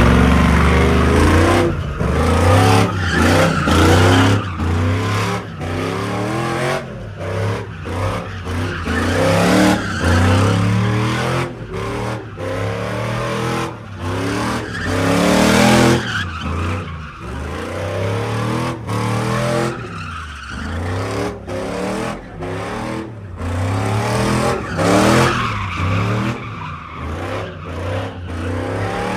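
A truck being drifted: its engine revs up again and again, falling back between runs, while its tires squeal as it slides.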